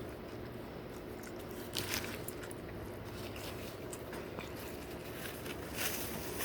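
A man chewing and biting food close to the microphone, with short crunchy clicks that come in scattered groups, most of them near the end.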